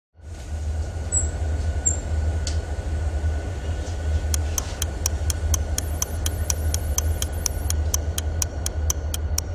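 An Abarth 595's 1.4-litre turbocharged four-cylinder engine idling with a steady deep rumble. From about four seconds in, a regular sharp ticking, about four a second, comes in over it.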